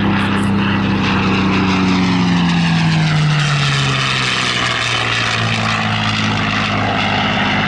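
P-51D Mustang's Packard V-1650 Merlin V12 engine and propeller in a flypast, loud and steady, the engine note dropping in pitch as the aircraft passes about two to three seconds in, then holding at the lower pitch as it draws away.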